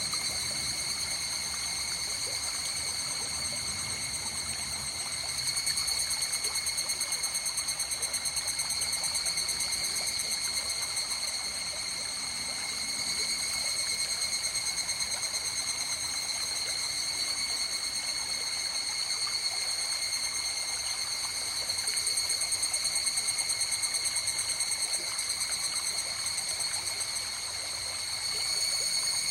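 A river flowing, a steady rush of running water, under a continuous high trilling chorus that swells slightly at times.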